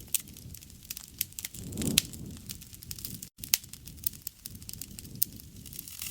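Campfire crackling: wood popping in many sharp, irregular snaps over a low rush of flame that swells about two seconds in. The sound drops out completely for a split second a little past the middle.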